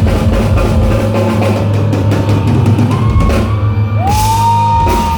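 Live rock band playing at full volume, with drum kit and bass under it. About four seconds in, a high note slides up and is held.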